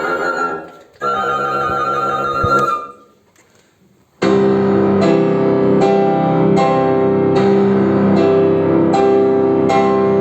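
Live chamber music. Wind instruments hold notes with vibrato and then break off into a short pause. About four seconds in, a loud passage begins: repeated struck chords over sustained low notes.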